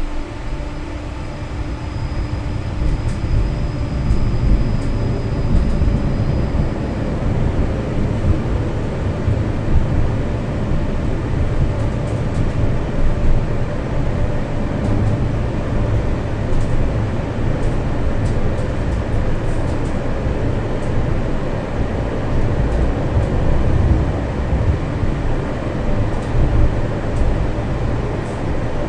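Tram running along its rails, heard from inside the car: a steady low rumble of wheels and motor that grows louder over the first few seconds, then holds.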